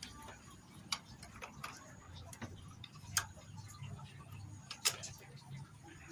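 Irregular sharp clicks and taps, four of them louder than the rest, from tools and parts being handled during a motorcycle engine teardown.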